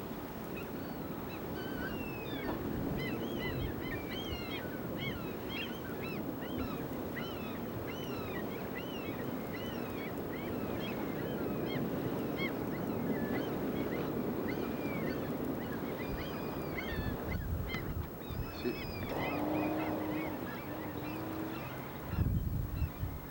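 A flock of birds calling, with many short, overlapping chirping calls over a steady rushing background. Near the end there are a few low thumps.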